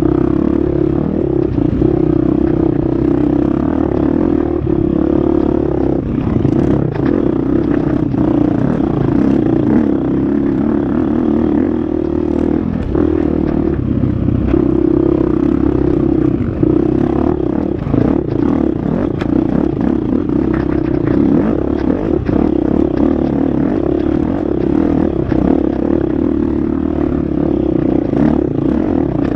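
Husqvarna FX 350 four-stroke single-cylinder dirt bike engine running hard along an off-road trail, its note holding steady with brief dips as the throttle is eased. Frequent short clatters and scrapes from the bike over rough ground.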